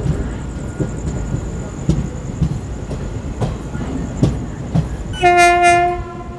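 Passenger train wheels clattering irregularly over rail joints and points, heard from an open coach door. About five seconds in, one short steady blast of a train horn, under a second long and the loudest sound.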